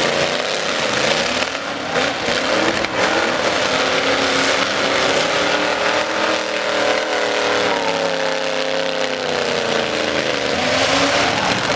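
Demolition derby trucks' engines running hard at high revs, the pitch climbing and sagging over several seconds, with a few short knocks about two to three seconds in.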